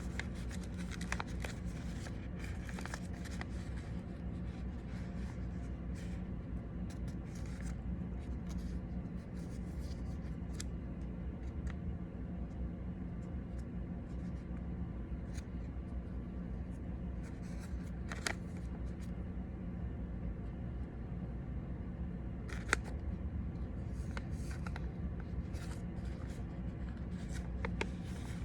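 A sheet of origami paper being folded and creased by hand: scattered crisp rustles and sharp creasing clicks over a steady low room hum.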